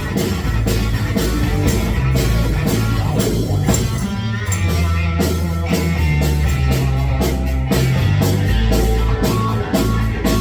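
Rock band playing live: electric guitar and bass over a drum kit keeping a steady beat.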